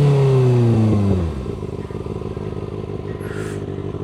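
Motorcycle engine winding down as the bike slows to a stop, its pitch falling steadily, then dropping about a second and a half in to a low, steady rumble.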